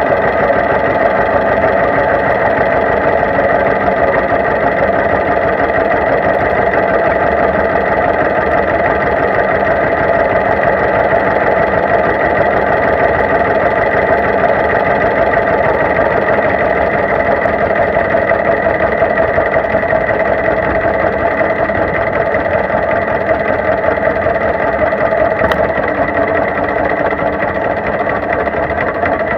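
Two-cylinder engine of a 1949 John Deere G tractor running steadily at a low, even speed.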